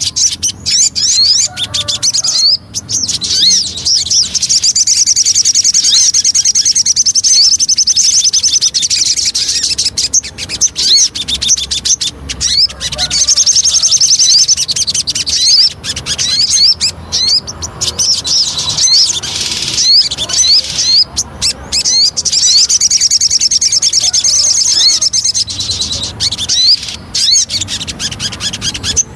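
A sogon songbird singing: long, fast, high-pitched trills several seconds long, broken by short chirps and phrases. This is a lure recording of the kind played to caged birds to set them singing.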